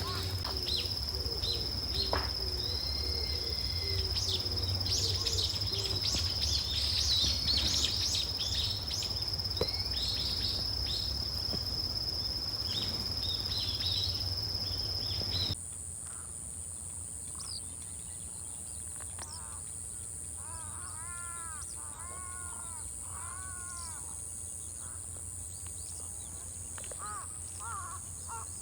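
Outdoor nature ambience: many small birds chirping over a steady high-pitched drone. After a sudden change about halfway through, a bird gives a run of harsh, arching calls, about five in a row, with a few more near the end.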